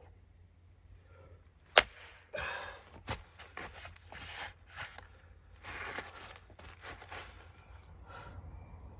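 Firewood being split with an axe: one sharp crack of the blade striking a log about two seconds in, followed by softer scraping and knocking sounds.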